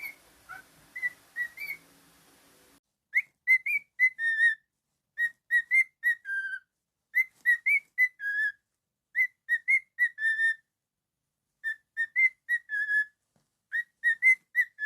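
Cockatiel whistling a repeated tune in short phrases of clear, bouncing notes, about half a dozen notes to a phrase, with a new phrase every couple of seconds.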